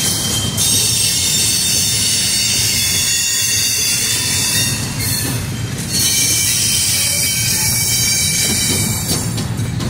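Double-stack intermodal freight cars rolling past, their steel wheels squealing high-pitched over a low rumble. The squeal drops away briefly about five seconds in and again near the end.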